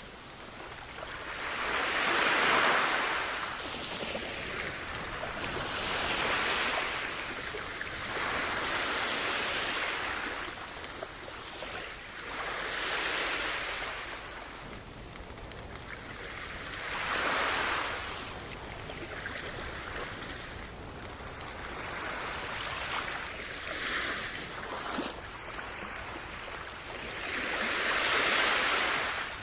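Sea waves washing onto a shore, each one swelling up and falling away every few seconds, the loudest near the start and near the end.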